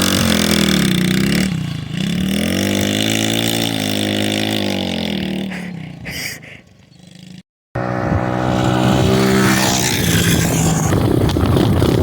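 Pit bike engines revving: the pitch drops and climbs again several times, then fades away about six seconds in. After a brief total dropout the sound resumes with another engine running and revving, rougher and noisier.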